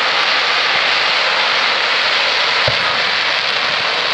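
Fireworks display: a dense, steady crackle from glittering stars falling after the shell bursts, with a single low boom about two and a half seconds in.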